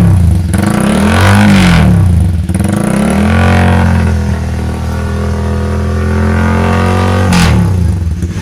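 Honda CBR150R's single-cylinder engine revved through an aftermarket Norifumi-style exhaust: two quick rising-and-falling throttle blips, then held at raised revs for about four seconds before dropping back toward idle near the end. The revving is a check that the new exhaust isn't leaking.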